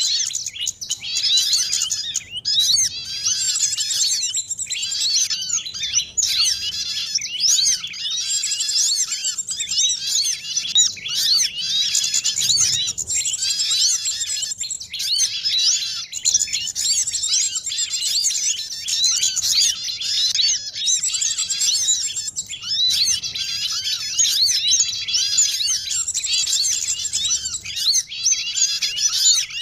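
Bird-lure recording of a busy chorus of small songbirds: many high, rapid chirps and twittering phrases overlapping without a break, the ruckus used to draw small birds in to a trap.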